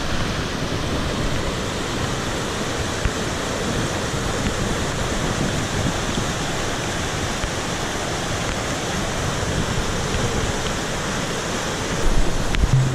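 Monsoon-swollen mountain stream rushing steadily, a constant loud roar of water. Near the end comes a brief low rumble, like wind or handling on the microphone.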